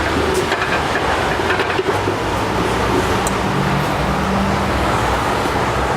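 Used engine oil draining out of the oil-pan drain hole into a drain pan: a steady, loud pouring and splashing.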